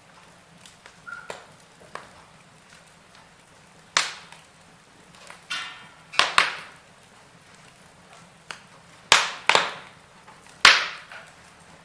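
Wood fire in a fireplace crackling: a handful of sharp pops and snaps over a faint hiss, the loudest about four seconds in, two close together around six seconds, another pair near nine seconds and a last one late on.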